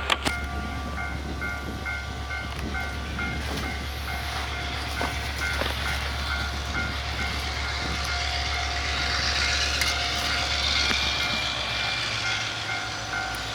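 Locomotive running with a steady low hum that cuts off about eleven seconds in, over a beeping tone repeating about twice a second. A hiss swells up in the second half.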